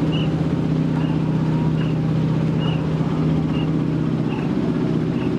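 Motorboat engine running steadily, with a short high chirp repeating a little more than once a second over it.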